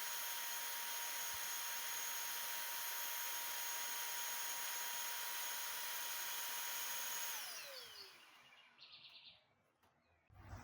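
Small high-speed electric motor running steadily with a high whine, then switched off about seven seconds in and winding down with a falling pitch.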